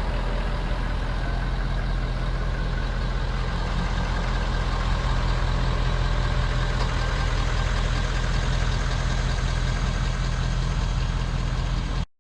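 Truck engine running steadily at an unchanging pitch. It cuts off suddenly right at the end.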